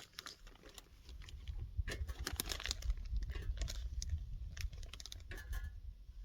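Scattered light clicks, taps and rustles of food packages and containers being handled and unpacked from a dry-bag cooler, over a steady low rumble.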